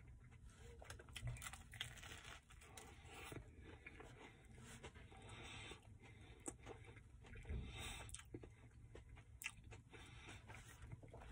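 A person chewing a mouthful of sub sandwich, faint and close, with soft crunches and small irregular clicks.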